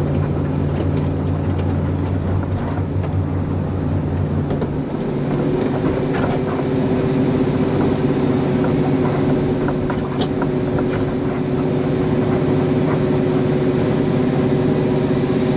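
Procharger-supercharged 2-valve 4.6 L V8 of a 2004 Mustang GT idling steadily, heard from inside the cabin. About five seconds in the low rumble thins and a steady higher tone comes in.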